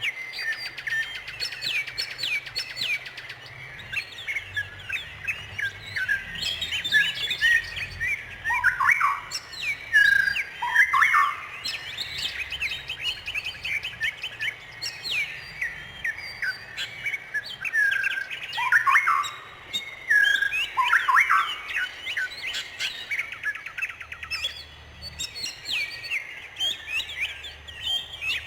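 Songbirds chirping and singing continuously in quick, overlapping high chirps, with now and then a falling whistled note.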